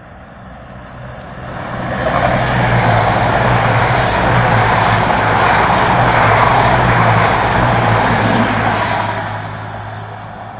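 A train passing, its steady low engine hum and rumble swelling to loud about two seconds in and fading away near the end.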